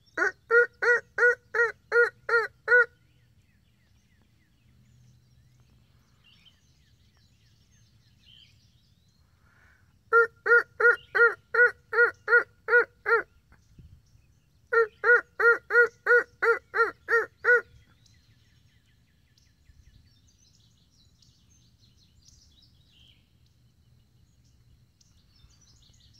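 Turkey yelps: three runs of about eight to ten evenly spaced, pitched notes, about three a second, with a few seconds of quiet between the runs.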